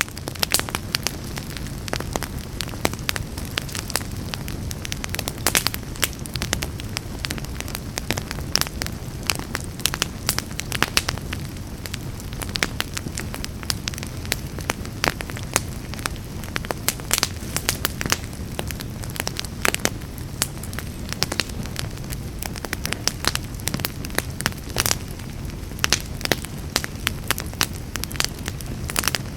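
Wood fire burning in a fireplace: a steady low rumble of flames with constant irregular crackling and sharp pops of burning wood, some much louder than others.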